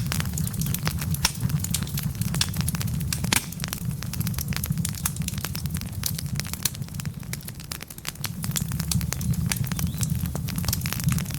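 Wood fire burning in a fireplace: dense, irregular crackling and snapping of the logs over a steady low rumble of the flames, dipping briefly about eight seconds in.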